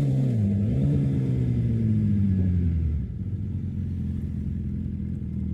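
Sport motorcycle with a race-fit exhaust going by in a tunnel, its engine note falling in pitch, with a short dip and pick-up just under a second in. About three seconds in it drops to a quieter, steady low hum.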